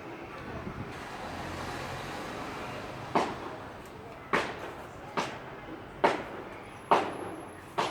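A low rustling noise, then six sharp knocks or bangs about a second apart, each with a short ringing tail.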